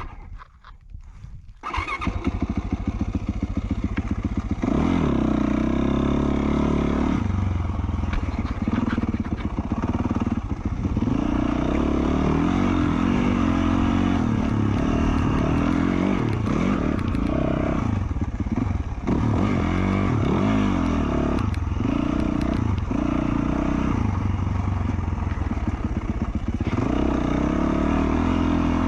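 2020 Yamaha YZ450F dirt bike's single-cylinder four-stroke engine, fitted with an FMF Q4 slip-on exhaust, running under way. It is low and uneven for about the first two seconds, then picks up and revs up and down repeatedly as the bike is ridden along the trail.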